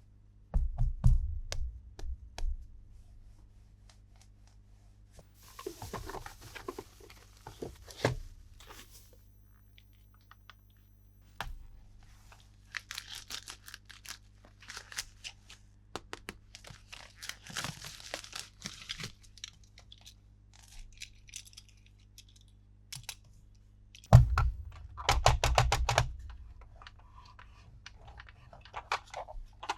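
Toy packaging and plastic toy parts being handled: short spells of crinkling and tearing mixed with scattered clicks and knocks, with heavier thumps about a second in and again about three-quarters of the way through.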